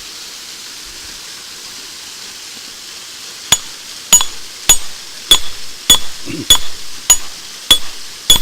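Rock hammer striking hard layered rock, nine sharp ringing clinks about 0.6 s apart starting about three and a half seconds in, without chipping a piece loose. A steady hiss runs underneath.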